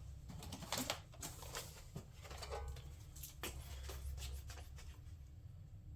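Faint, scattered clicks and taps of a plastic radiator shroud being handled and set in place over a car's radiator, over a low steady hum.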